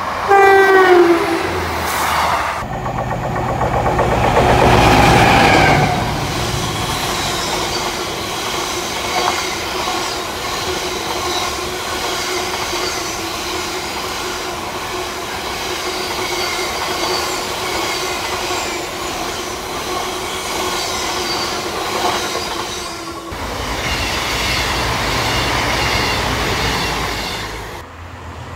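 Class 158 diesel multiple unit sounds a brief horn whose pitch falls slightly. The sound then changes abruptly to a coal train of hopper wagons passing, first as a loud rumble and then as a long steady rumble with a held tone. Near the end it changes again to a Class 185 diesel multiple unit passing.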